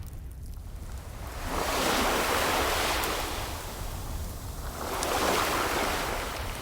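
Ocean waves washing in, two swells that rise and fade a few seconds apart, over a steady low rumble with a few faint fireplace crackles.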